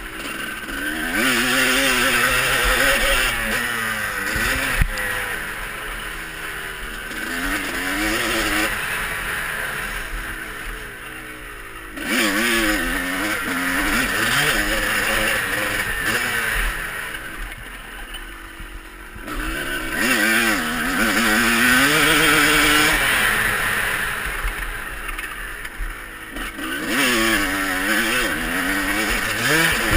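Motocross bike engines revving hard and easing off again and again as they ride the track. The pitch climbs and drops repeatedly, and the sound swells loudest about two seconds in, around the middle, and near the end.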